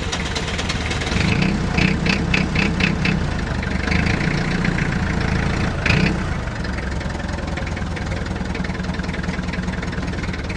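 Perkins 4.203 four-cylinder diesel in a Lancing Bagnall forklift, running steadily at idle. It gets louder for a few seconds in the middle, then settles back. The engine now runs after being topped up with 7 litres of oil, which the owners take to be the cure for its cutting out.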